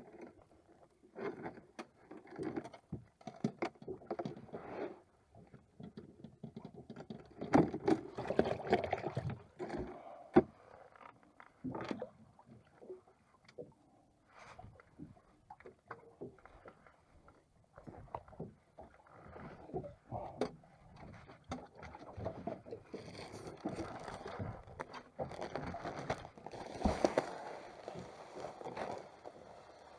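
Irregular knocks, bumps and scrapes of handling and work aboard a small moored boat, with a few louder knocks around a third of the way in and near the end.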